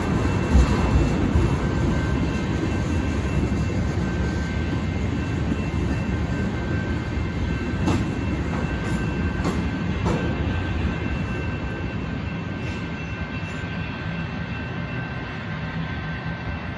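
Freight train of tank cars rolling past a grade crossing, wheels rumbling with a few sharp clicks over the rail joints, the rumble fading in the second half as the last cars go by. Electronic crossing bells keep ringing steadily throughout.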